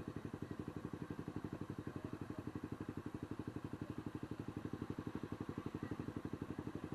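Motorcycle engine running at a steady speed, with an even, fast pulsing of about ten beats a second.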